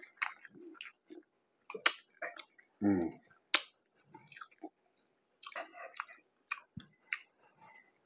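Close-up chewing of a mouthful of soft, saucy burger, with irregular wet mouth clicks and smacks. There is a short low hum of enjoyment about three seconds in.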